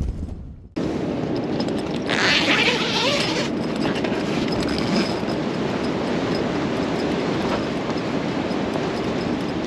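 Strong blizzard wind blowing in a steady rush after a brief silence near the start, with a louder hissing gust about two seconds in.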